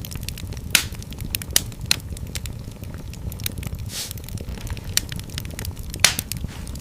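Wood fire burning in a fireplace: a steady low rumble of flames with irregular crackles and sharp pops, the loudest pops about a second in and near the end.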